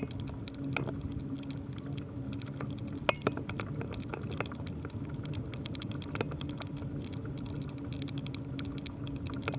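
Bicycle riding noise: irregular clicks and rattles over a steady low hum, with two sharper clicks about three seconds in.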